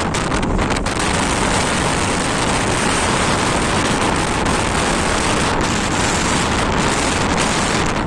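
Strong wind rushing over the microphone at sea, a steady dense roar with the sea beneath it.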